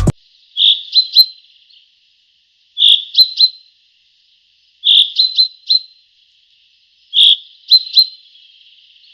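Bird chirping: the same short call repeated four times, about every two seconds, each a brief note followed by two or three quick high chirps.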